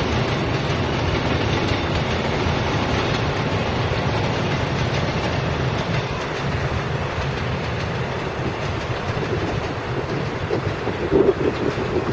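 A Taiwan Railway electric locomotive hauling an EMU1200 trainset runs past on elevated track. There is a steady rumble of wheels on the rails, with a short louder stretch of wheel knocks near the end.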